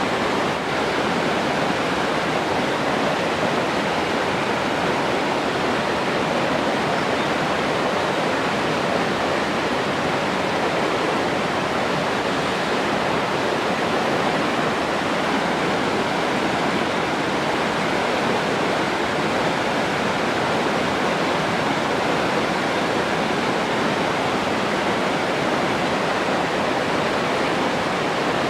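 Rushing water, a steady, even, unbroken noise with no splashes or changes.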